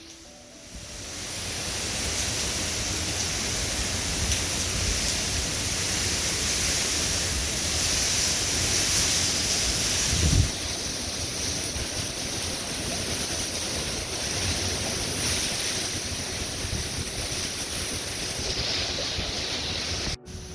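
Hurricane-force wind blowing hard and steadily, buffeting the microphone, with a brief low knock about halfway through.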